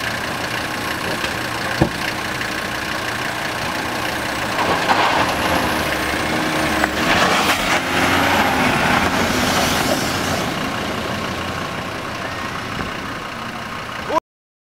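Off-road SUV engine running under load on a slippery climb, louder for several seconds in the middle, with one sharp knock about two seconds in. The sound cuts off suddenly near the end.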